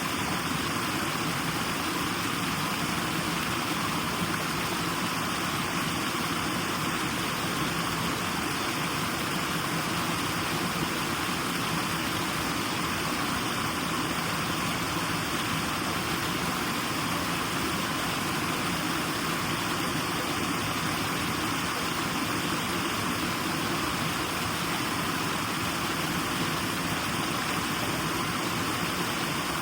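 Continuous white noise for sleep: an even, unchanging hiss with a steady low rumble under it.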